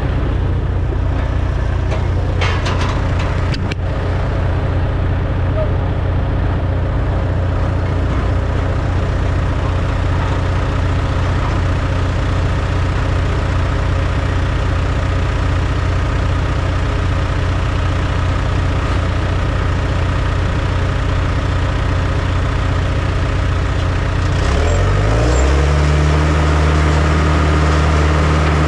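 Engine of heavy earthmoving machinery running steadily at low speed, with a few short clicks or knocks a few seconds in. About 25 seconds in it revs up and holds at a higher speed.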